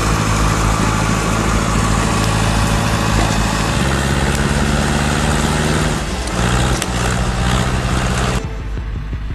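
John Deere 440A log skidder's diesel engine working under load, its note shifting in pitch a couple of times as engine speed changes, then cutting off near the end.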